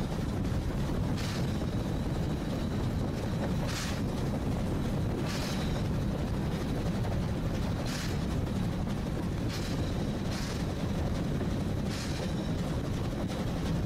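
Oigawa Railway train running along the track: a steady low rumble of wheels on rail, with a short sharp click every couple of seconds.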